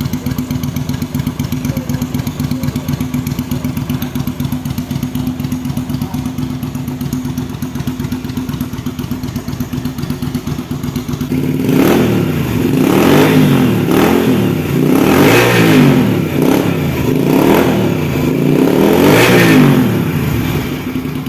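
Kaisar Ruby V250 motorcycle's V-twin engine running through a newly fitted custom exhaust. It idles steadily, then about halfway through it is revved several times, each rev rising and falling in pitch.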